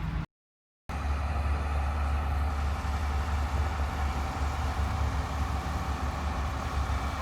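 Pickup truck driving with a steady low rumble of engine and road noise, after a half-second dropout near the start.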